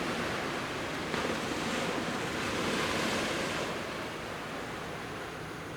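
Sea waves of the Genkai Sea washing onto a beach, a surge of surf building from about a second in and easing off near four seconds.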